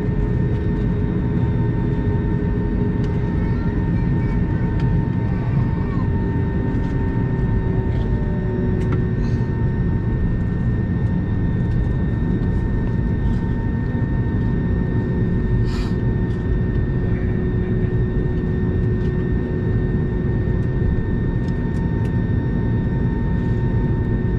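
Cabin noise of an Airbus A320neo on the ground after landing: a steady low rumble with several high whining tones from the engines and air systems. One whine shifts slightly in pitch partway through.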